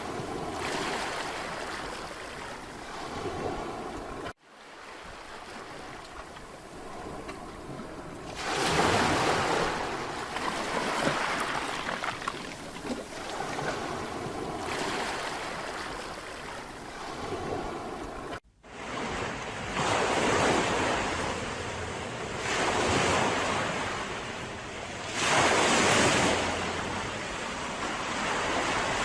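Sea waves breaking on a beach and washing back, swelling loudly every few seconds. The sound drops out abruptly twice, about four seconds in and again past the middle, where the recording cuts.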